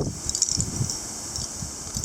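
Strong gusty wind rustling tree leaves, with an uneven low rumble of wind on the microphone.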